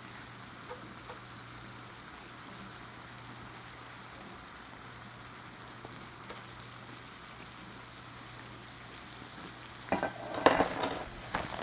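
Marinated bulgogi beef sizzling steadily in a sesame-oiled frying pan. About ten seconds in, a utensil clatters and scrapes in the pan as the meat is stirred.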